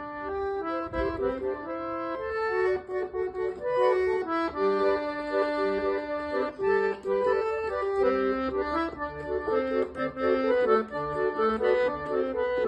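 Accordion playing a lively traditional tune, a melody of held notes over a bass and chord part.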